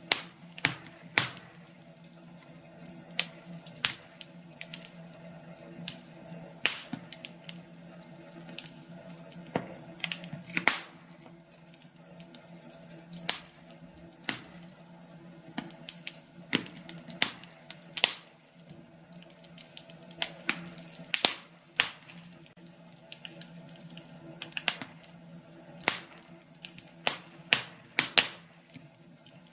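Burning firewood crackling: irregular sharp pops and snaps at uneven intervals, over a steady faint background of the fire.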